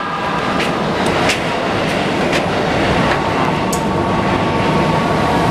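Keikyu New 1000 series electric train standing at a platform with its doors open: a steady hum of its running equipment over busy platform noise, with a few brief sharp clicks.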